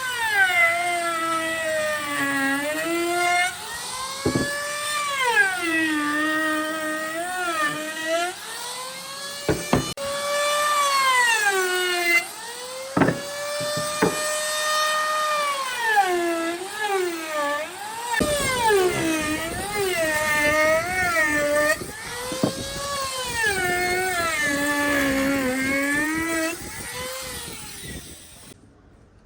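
High-speed electric power tool whining, its pitch repeatedly sagging and recovering as it is loaded and eased off. It stops abruptly near the end.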